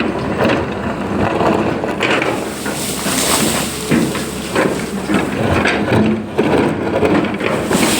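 Long-boom excavator at work: machine noise with irregular knocks, clatter and scraping from the digging.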